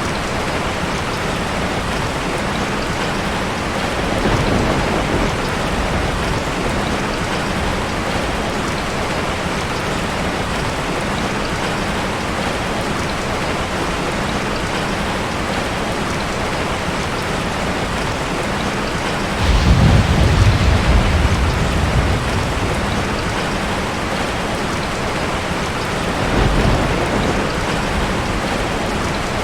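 Steady heavy rain falling, with low rolls of thunder: a short one about four seconds in, a louder, longer rumble about two-thirds of the way through, and a third shortly before the end.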